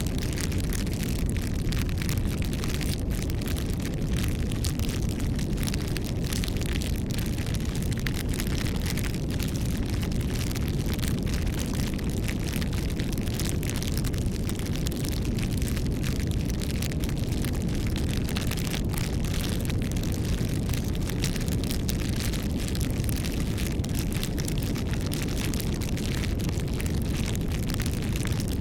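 Wood fire burning: a steady low rumble under many small, irregular crackles and pops.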